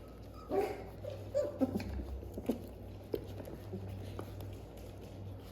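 Six-week-old Welsh Terrier puppies moving about, with a couple of short puppy vocal sounds about half a second and a second and a half in, and light pattering and clicks.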